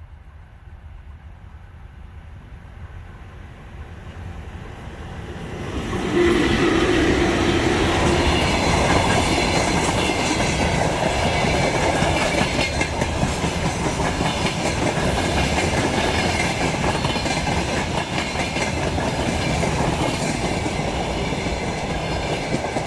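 Electric train approaching, then passing close by with a loud, steady rumble and wheels clattering over the rail joints. A brief steady tone sounds as it arrives.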